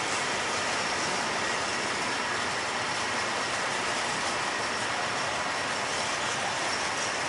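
Freight train of covered hopper wagons rolling past: the steady, even noise of steel wheels running on the rails.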